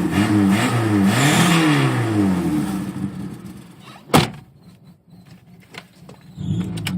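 Mitsubishi Lancer 12-valve engine blipped repeatedly, the revs rising and falling about once a second, then dropping away to quiet. About four seconds in there is a single sharp knock.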